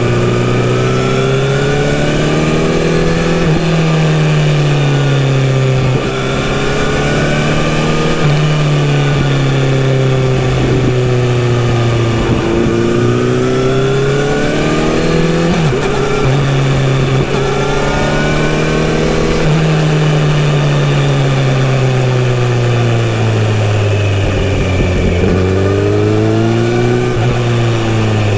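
Kawasaki Z900RS inline-four motorcycle engine through an aftermarket full-system sports exhaust, ridden on the road: the engine note repeatedly climbs under throttle and then drops back, with several gear changes and rolling off, over a steady rush of wind and road noise.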